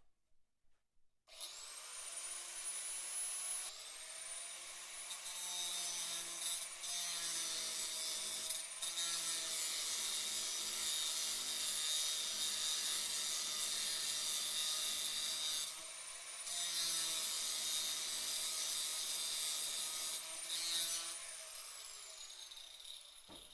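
Angle grinder spinning up about a second in and cutting through rusted bolts on a trailer's floor plate with a high whine and grinding noise. Its pitch dips several times under load, and it winds down near the end.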